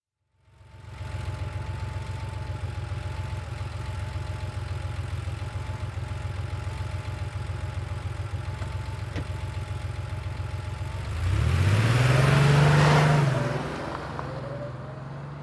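Air-cooled flat-six engine of a 1990 Porsche 911 idling steadily. About eleven seconds in it revs up with a quick rise in pitch, the loudest part, then the engine note drops and fades away.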